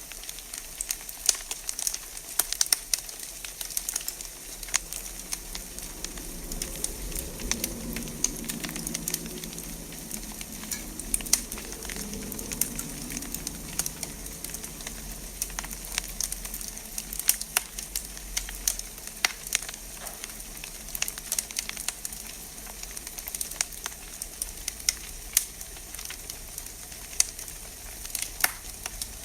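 Wood fire crackling in a fireplace: a steady hiss with frequent sharp pops and snaps. A low rumble swells for several seconds in the middle.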